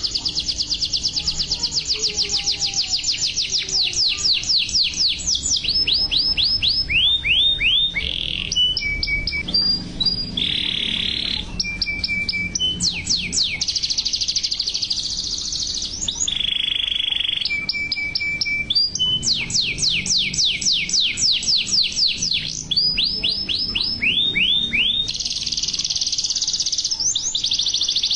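Yellow canary singing a long, varied song: fast rolls of rapidly repeated high notes and runs of falling notes. These are broken up by a few harsher buzzy passages and short steady whistled notes.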